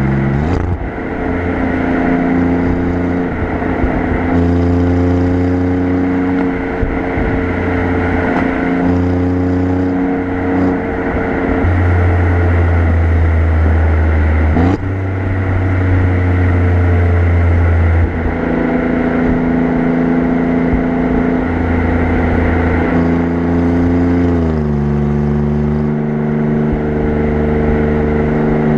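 Alfa Romeo Giulia Quadrifoglio's twin-turbo V6 exhaust, heard close at the rear bumper, during easy cruising, with road and wind noise underneath. The engine note shifts pitch a few times: a sharp rise near the start, a sudden change about halfway, and a glide down near the end.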